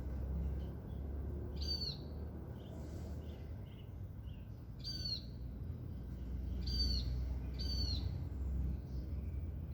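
Wild birds calling: a short, high, arched note repeated four times, with softer chirps between, over a steady low rumble.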